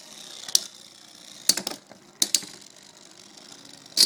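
Two spinning Beyblade tops with metal wheels colliding in a stadium: sharp metallic clacks, single hits and quick double and triple hits, about every second, the loudest near the end, over a faint steady whir of the spinning tops.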